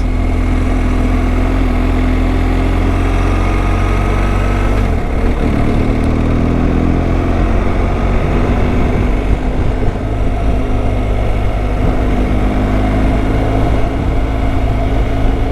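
Motorcycle engine running under way, with road and wind noise. The engine note dips about five seconds in, then climbs steadily.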